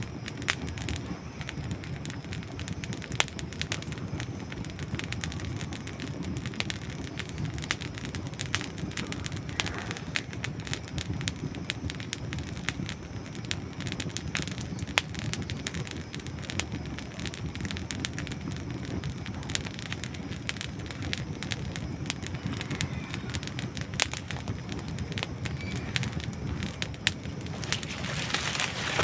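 Campfire of dry wood logs burning, with a steady low rumble of flame and constant irregular crackling, broken by occasional sharper pops.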